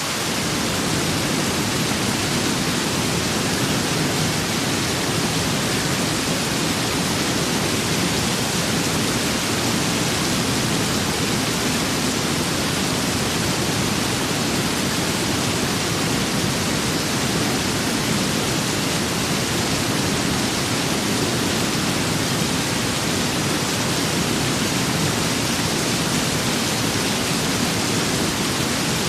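Steady rain and wind ambience: an even, unbroken hiss of rainfall with a low wind rumble beneath, with no distinct drops, gusts or thunder.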